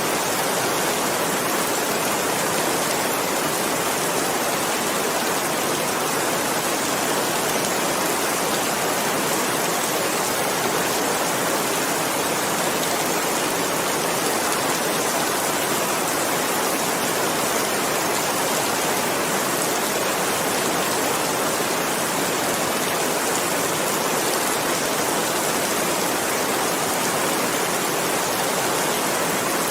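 Steady, even rain falling: a continuous hiss of many drops without distinct events.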